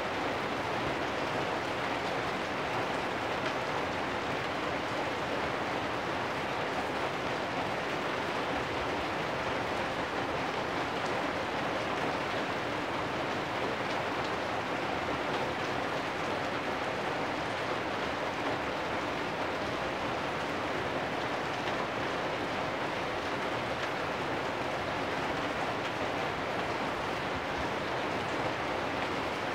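Steady rain falling on corrugated metal roofs, an even hiss with no break or change in strength.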